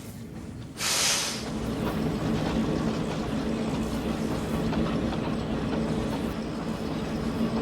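Train sound effect: a sudden loud hiss about a second in, then a steady running rumble with wheels clattering on the track.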